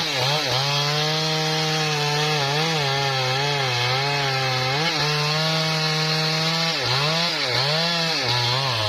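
Husqvarna 3120 XP two-stroke chainsaw revving up and cutting into a trembesi log at full throttle. The engine holds a high steady pitch that wavers as the chain bites, then dips and recovers several times in quick succession near the end as it bogs under the load of the cut.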